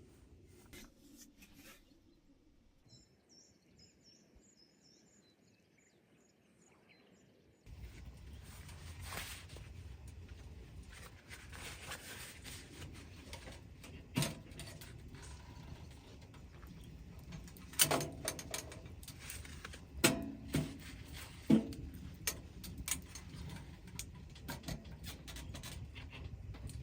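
A short run of high, faint bird chirps, then steady outdoor background with several sharp knocks and clicks from handling objects, the loudest coming in a cluster in the second half.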